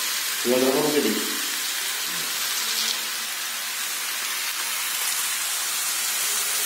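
Pork frying in a wok with daikon leaves piled on top: a steady sizzle.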